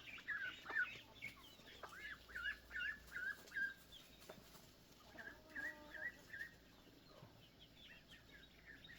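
Chickens clucking in quick runs of short calls, with a brief pause about four seconds in before another run.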